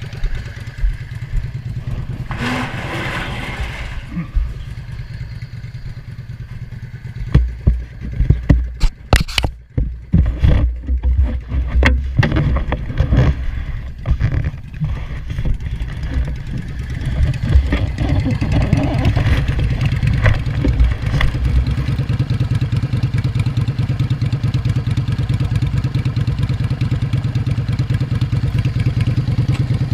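An engine running steadily, which the title says has had its vacuum leak fixed. A run of irregular knocks and clatter comes through about a third of the way in, then the engine settles into a louder, even run.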